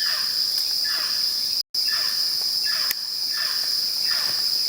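Rainforest insect chorus: a steady high-pitched drone. Underneath it a short falling call repeats about once a second. The sound drops out for an instant about a third of the way in.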